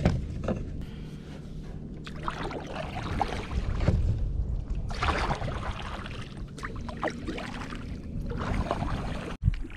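Kayak paddle strokes dipping and splashing in the water, in irregular bursts.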